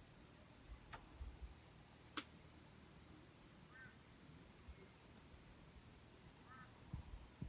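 Steady high-pitched drone of insects at dusk, with two sharp pops from a wood campfire about one and two seconds in, the second the louder. Two faint short chirps come later.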